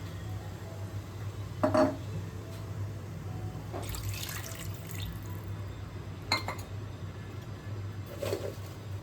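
Water poured from a bowl into a kadai of ghee-fried rice, with a splashing pour about four seconds in and a few short knocks of the bowl against the pan.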